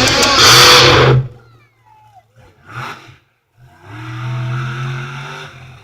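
Monster truck engine revving loudly, cutting off abruptly about a second in; a second, quieter run of engine noise comes in the second half.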